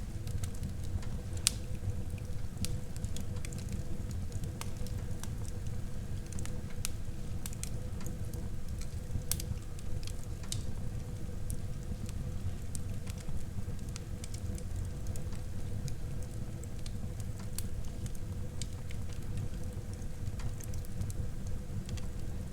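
Wood fire burning in a fireplace: a steady low rumble of flames with frequent sharp crackles and pops scattered throughout, one louder pop about a second and a half in.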